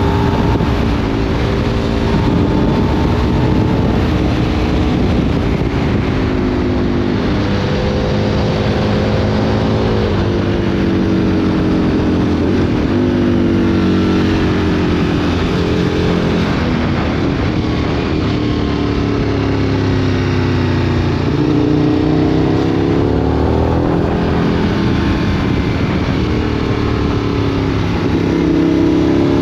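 2003 Aprilia Tuono 1000's 60-degree V-twin through a Remus exhaust, ridden under load: the engine note climbs and drops again and again as it accelerates and shifts through the gears.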